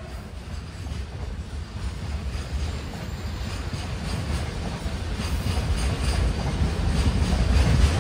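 A container freight train's wagons rolling past on the next track, a heavy rumble with the clatter of wheels. It grows steadily louder.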